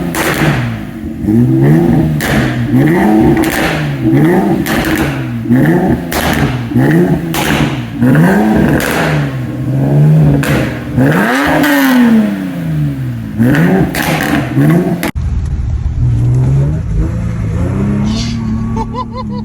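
Infiniti G37S's 3.7-litre V6 revved up and down over and over, about once a second, with sharp pops through the revs. About fifteen seconds in, it cuts to the engine running quieter and steadier, its pitch climbing near the end.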